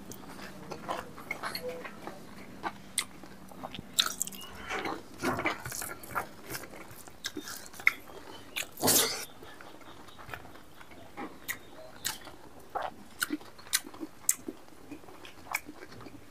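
Close-up mouth sounds of a man eating rice and mithun meat by hand: chewing with scattered wet smacks and clicks, and a louder short noisy rush about nine seconds in.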